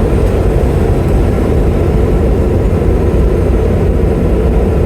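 Diesel semi-truck engine running steadily under way at low speed, heard from inside the cab as a constant low-pitched drone with road noise.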